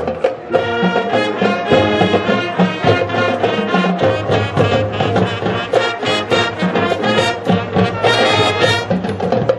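High school marching band playing: brass horns on sustained chords and melody lines over a steady drumline beat, with a bright high brass passage near the end.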